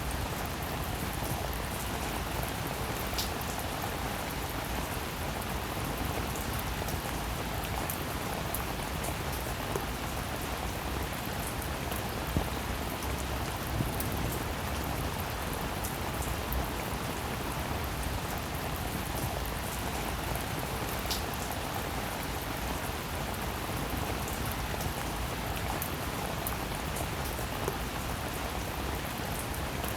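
Steady rain falling, an even wash of sound with individual drops ticking sharply now and then.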